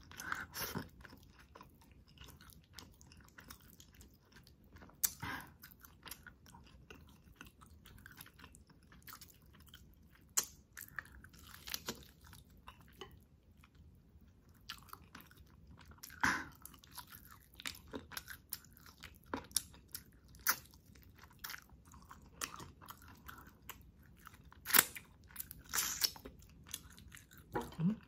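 Close-miked mouth sounds of eating spicy chicken adobo in coconut-milk sauce with rice: steady chewing and wet lip smacks, broken by irregular sharp crunches and clicks.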